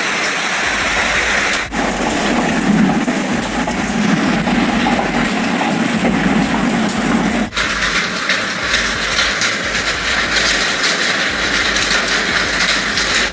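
Hail and heavy rain pelting down in a dense, steady rattle. The sound changes abruptly about two seconds in and again about halfway through, and the last part is full of sharp ticks of stones striking.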